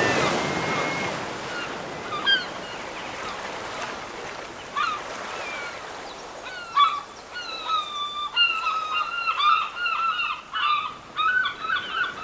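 Seagulls calling: a few scattered cries at first, then a run of quick, repeated calls from about seven seconds in, over a hiss that fades during the first few seconds.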